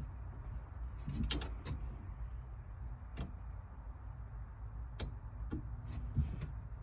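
Scattered metallic clicks and clinks of hand tools on the steel harness bar and its bolts as they are snugged down, about half a dozen separate ticks over a low background hum.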